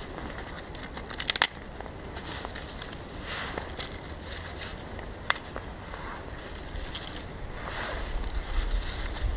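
Dry hay and small twigs being handled and broken: light rustling and crinkling, a quick run of sharp cracks about a second in, and a single snap near the middle.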